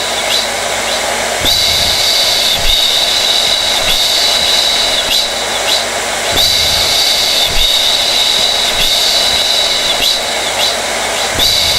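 Hair dryer (blow dryer) running continuously: a steady rush of air with a high motor whine that strengthens and eases every few seconds.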